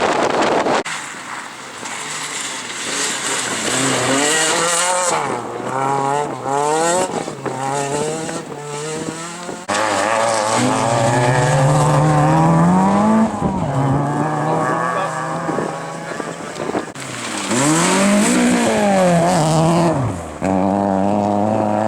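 Rally cars at racing speed, their engines revving hard and rising and falling in pitch through gear changes across several separate passes. About two-thirds of the way through, one car's note climbs and then drops as it goes close by.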